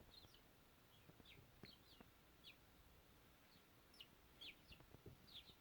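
Faint, high cheeps of hand-reared nestling birds: short, downward-sliding peeps scattered throughout and coming thicker near the end, with a few soft knocks.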